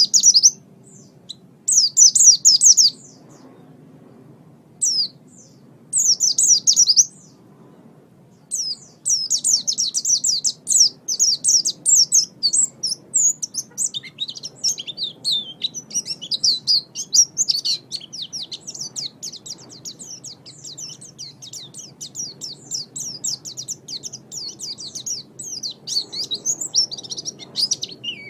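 White-eye (pleci) singing: short high trilled phrases at first, then a long unbroken run of rapid, high-pitched twittering from about a third of the way in.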